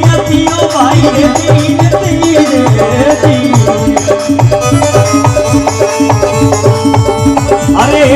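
Instrumental interlude of a folk devotional bhajan: a melody instrument plays a winding tune over a steady hand-drum beat, with rattle-like percussion.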